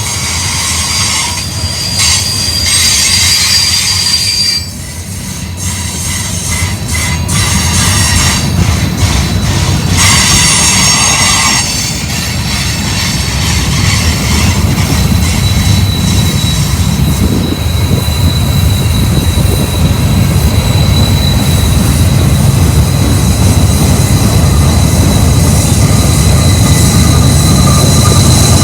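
Freight cars of a Union Pacific manifest train rolling past with a steady low rumble. Wheels squeal in a high, steady tone, once briefly near the start and again from about halfway through to the end.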